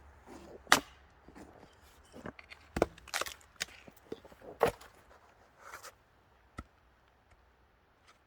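Axe chopping small sticks of kindling wood: several sharp, irregularly spaced strikes with a splintering crack, the hardest about a second in and again around three and four and a half seconds, then one lighter knock a little later.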